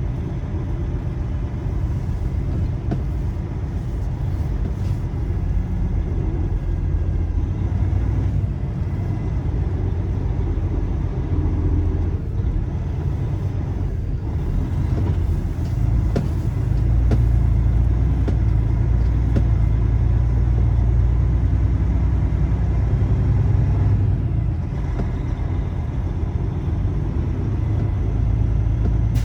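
Semi truck running down the road: a steady low engine and road rumble that grows louder for several seconds past the middle.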